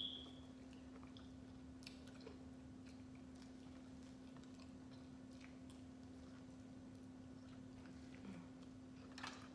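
Faint chewing and biting on corn on the cob: scattered soft clicks over a steady low hum, with a short high squeak right at the start.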